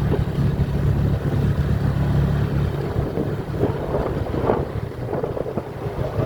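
Motorcycle engine running while riding, with wind buffeting the microphone; the steady low engine hum eases off about two and a half seconds in.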